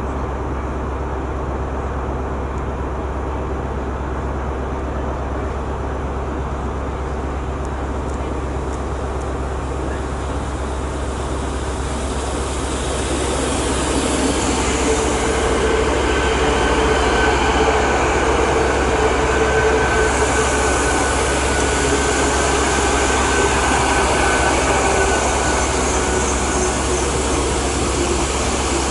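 Great Western Railway Intercity Express Train (IET) approaching and running past along the platform. A steady rumble grows louder about halfway through as the train draws level, and a steady whine sits over it through the second half.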